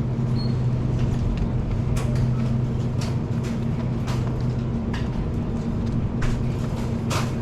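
Steady low machine hum with a few faint clicks and knocks.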